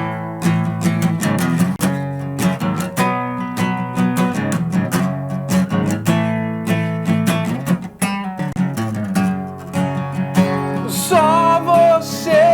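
Guitar strumming a steady rhythm through an instrumental break in a rock song; a male voice comes in singing near the end.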